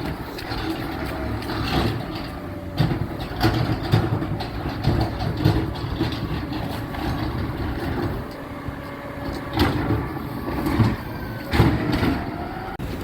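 Garbage truck engine running steadily, with repeated metallic clanks and knocks over it and a faint wavering whine.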